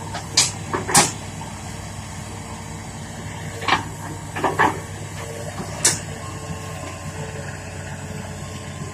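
The Isuzu 6BG six-cylinder diesel of a Hitachi Zaxis200-5G excavator running steadily. A handful of sharp metallic knocks and clanks come through in the first six seconds.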